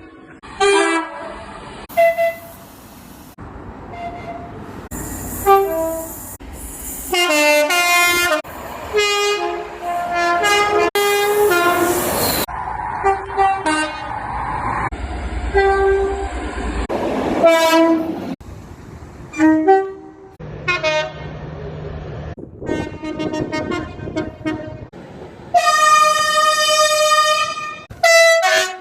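A run of short train horn and whistle blasts cut one after another. Some sound several notes at once, and most last a second or two. The longest steady blast comes near the end.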